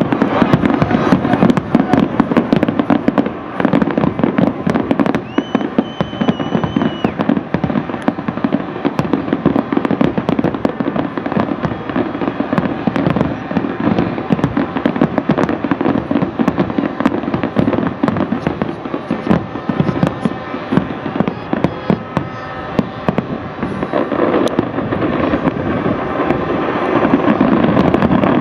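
Fireworks display: dense, continuous crackling and banging, with a steady whistle for about two seconds around the sixth second and a louder barrage near the end.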